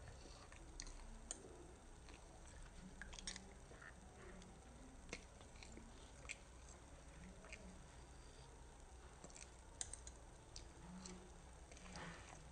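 A child chewing a mouthful of pancake, with faint mouth clicks and smacks scattered irregularly.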